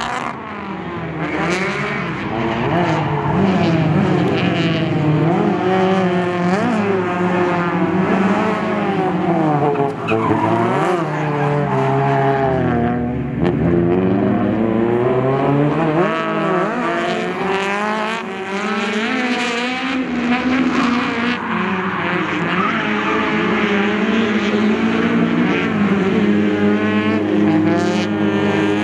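Drift cars on track: engines revving hard, the pitch sweeping up and down again and again, with tyres skidding and squealing.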